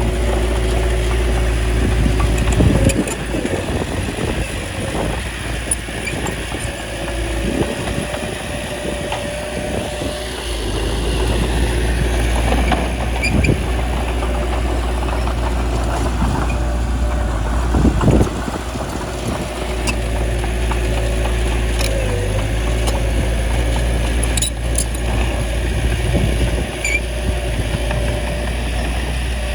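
Bulldozer's diesel engine running steadily, with a few louder surges and knocks.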